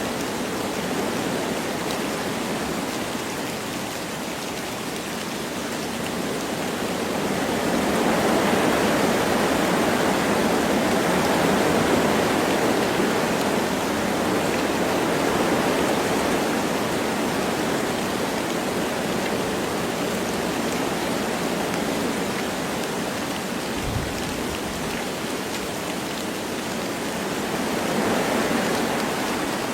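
Wind blowing through forest trees with light rain, a steady rushing that swells in gusts. A brief low thump comes about two thirds of the way through.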